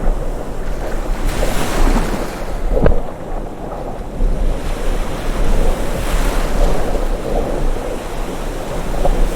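Sea waves surging and washing in, swelling twice (about a second in and again about five seconds in), over a low steady rumble of wind.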